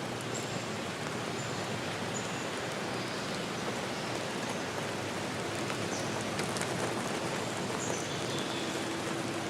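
Steady hiss of falling or running water in a forest, with a few short, high-pitched peeps scattered through it.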